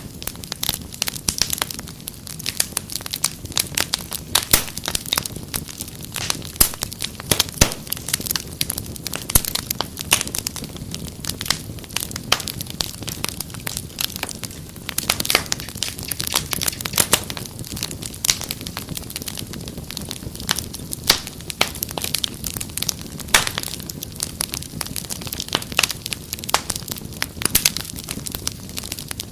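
Wood fire crackling continuously: dense, irregular snaps and pops over a low steady rumble of flame.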